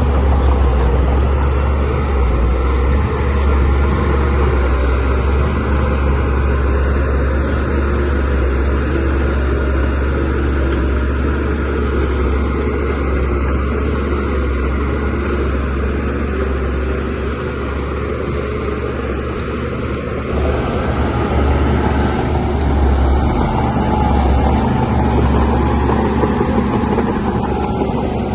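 Shantui DH17C3Pro bulldozer's diesel engine running steadily as the dozer works, a continuous deep drone with small swells in level.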